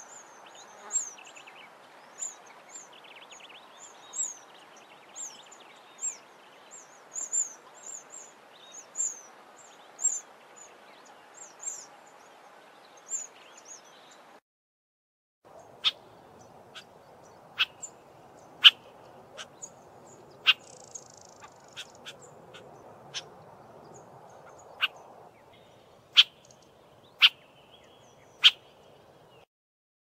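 Swee waxbill calling: a run of thin, very high 'swee' notes, one or two a second. After a short break, a southern tchagra gives sharp, scattered single notes over faint background hiss.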